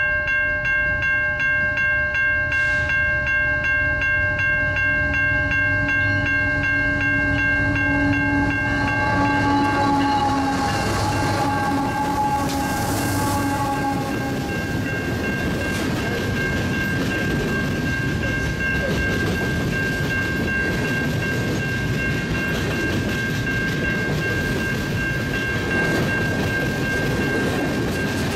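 Freight train approaching and passing. The locomotives' diesel engines grow louder and pass about ten seconds in, then freight cars roll by with steady wheel-on-rail rumble and clatter. A grade-crossing bell rings in rapid strikes throughout.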